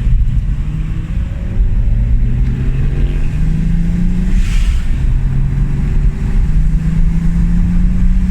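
Turbocharged BMW with a near-straight-piped cat-back exhaust accelerating gently. The engine note climbs, drops at a gear change about halfway with a brief hiss, then climbs again. It is driven easy because the rebuilt engine is still in break-in.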